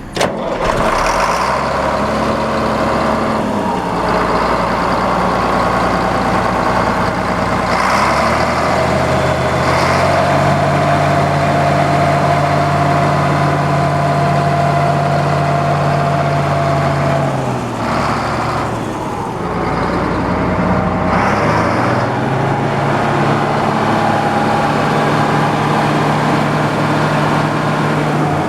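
Caterpillar 3306 inline six-cylinder diesel engine of a New Holland 1900 forage harvester running strongly, its speed stepped up and down a few times and held steady between changes.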